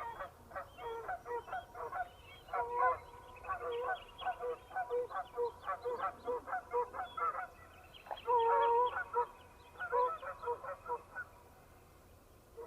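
A flock of geese honking as they fly over, many short calls overlapping in quick succession. A louder, longer honk comes a little past the middle, and the calls thin out near the end.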